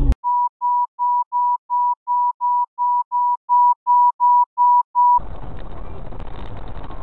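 A rapid series of short electronic beeps, all at one pitch, about three to four a second, getting a little louder partway through. They stop a little after five seconds in and give way to the steady noisy rumble of a car driving.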